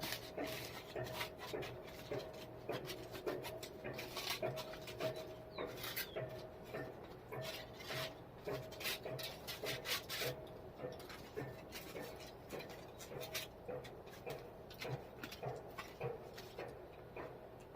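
Faint irregular scraping and many light clicks from hands-on work, over a faint steady hum.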